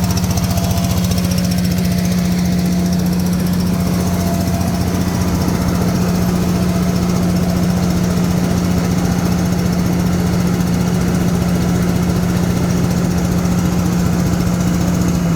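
Engine of a 1993 Toyota sweeper truck running steadily at high revs with an even drone, its pitch beginning to drop right at the end as it slows.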